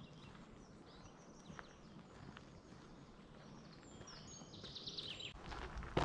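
Songbirds in woodland: faint high calls, then about four seconds in a bird sings a quick run of high notes. Footsteps on the path start again right at the end.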